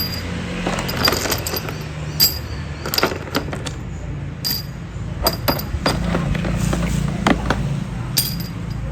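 Scattered metallic clinks and knocks, a dozen or so, over a steady low hum.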